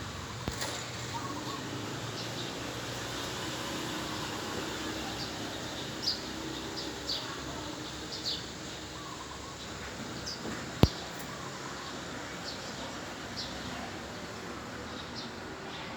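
Small birds chirping in short, scattered high calls over a steady low background hum, with a single sharp click about eleven seconds in.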